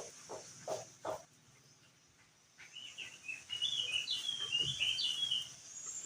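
Crested white-eye (opior jambul) singing: a rapid run of short, high chirping notes from about two and a half seconds in to about five and a half, after a few short lower notes in the first second.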